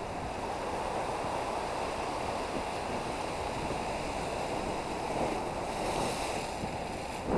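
Ocean waves washing against the shore rocks, a steady rush that swells a little about six seconds in, with a short knock right at the end.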